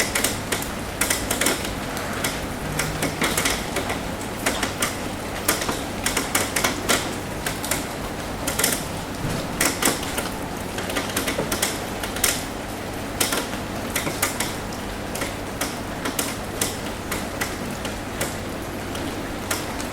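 Steady rain on a roof, with irregular sharp taps of drops striking it, several a second.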